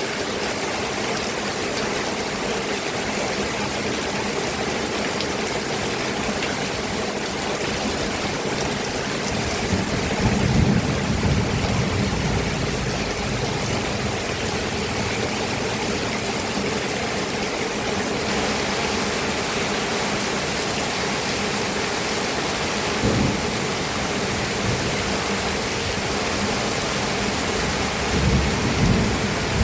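Steady heavy rain hissing without a break. Low rumbles of thunder swell up about ten seconds in, come again briefly later, and build near the end.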